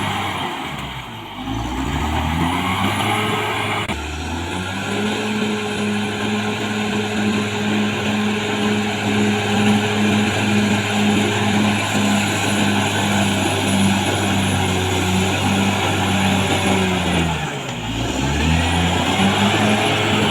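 Caterpillar D6R XL bulldozer's diesel engine running hard under load, steady in pitch, with the revs dipping and climbing back twice, about a second in and near the end.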